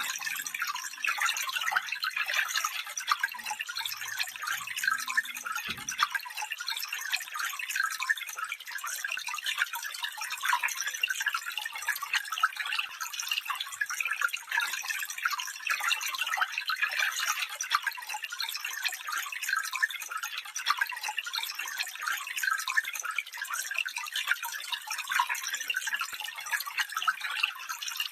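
Water of a small stream flowing, a steady, continuous trickling and splashing.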